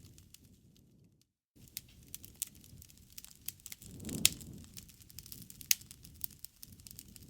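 Wood fire crackling in a fireplace: scattered sharp pops and snaps over a low rumble of flame, with the loudest pops about four seconds in and again near six. The sound cuts out briefly just after a second in.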